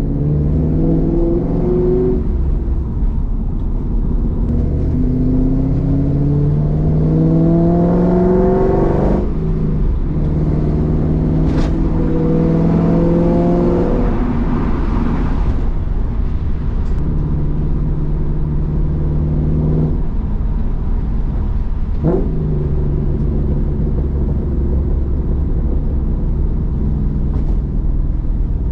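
Roush Mustang's engine heard from inside the cabin while driving: its pitch rises under acceleration, drops sharply about nine seconds in and climbs again, then holds steady at a cruise over road rumble.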